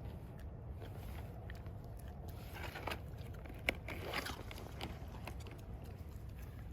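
A pet chewing and gnawing, with a few crunchy bites and one sharp click about three to four seconds in, over a steady low hum.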